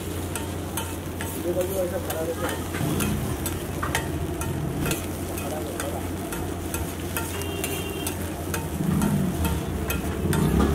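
Brains frying in oil on a flat griddle (tawa), sizzling steadily, while a metal spatula scrapes and taps against the griddle again and again. A steady low hum runs underneath.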